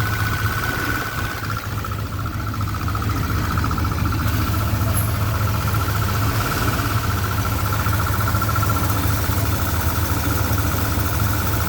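1989 Chevrolet truck's 5.7-litre V8 with a stage 2 cam idling, with a steady high whine over the engine note. The idle sags about two seconds in and picks back up: the slight surge the owner hears at idle in gear with the A/C on, cause not yet found.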